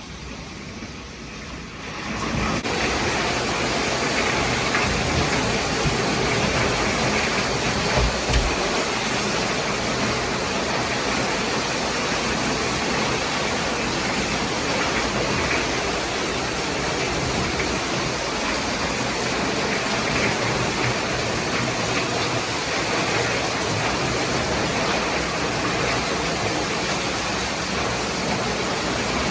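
Heavy rain pouring down in a steady dense hiss, with gusting wind; it swells up in the first two seconds, and a brief low thump sounds about eight seconds in.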